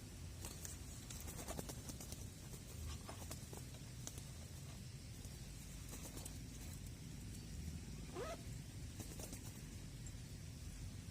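Low wind rumble on the microphone, with scattered light rustles and clicks in small clusters and one short rising whistle-like call about eight seconds in.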